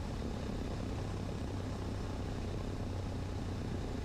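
Cessna 150's four-cylinder Continental O-200 engine and propeller running at idle with the power pulled back for landing, a steady low drone with airflow noise heard inside the cockpit.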